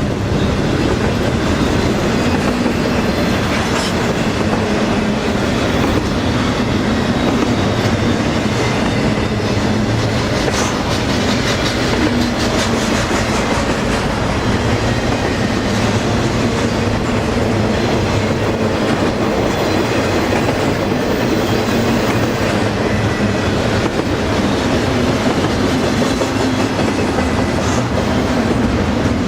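Double-stack container train rolling past, a steady loud rumble and clatter of steel wheels on rail, with a faint high squeal underneath.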